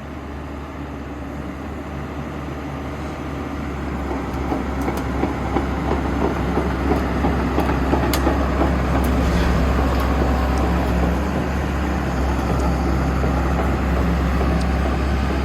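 Sany SY210C-9 excavator's diesel engine running steadily, growing louder over the first few seconds, with scattered metallic clanks and clicks from about four seconds on as the machine works.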